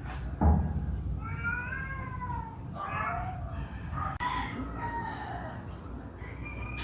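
Domestic cat meowing several times, drawn-out calls that rise and fall in pitch, with a low thump about half a second in.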